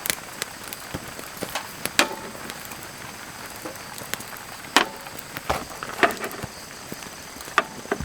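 A series of irregular sharp knocks and clicks, a few with a brief ring, over a steady faint hiss.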